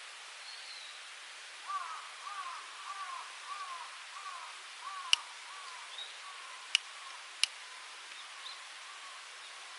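An animal giving a run of short, falling, whistle-like calls, about two a second, followed by three sharp cracks, over a steady hiss.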